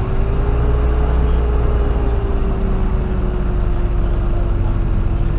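BMW E36 M3's straight-six engine idling steadily with the car standing still, heard from inside the cabin.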